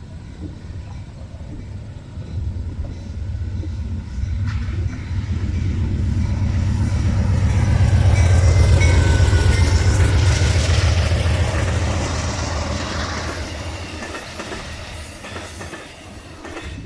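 A train passing close by: a heavy low rumble that builds, peaks about eight to eleven seconds in, and fades away.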